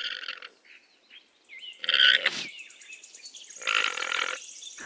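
Alpaca calling: three short, high-pitched calls with pauses between them.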